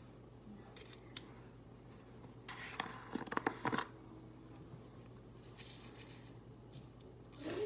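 Faint handling sounds: scattered clicks and rustling, with a dense run of clicks and scraping from about two and a half to four seconds in, over a steady low hum.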